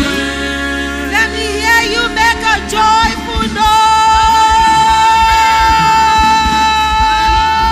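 Live gospel worship singing: a solo voice sings quick melodic runs, then holds one long note over sustained instrumental backing.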